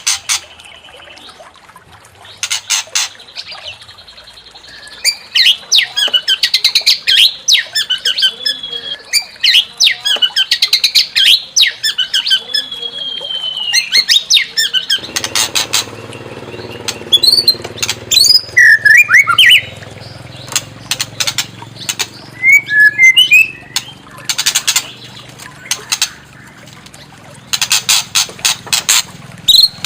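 White-rumped shama (murai batu) singing: loud whistled phrases broken by fast, harsh rattling runs. A low steady background noise comes in about halfway through.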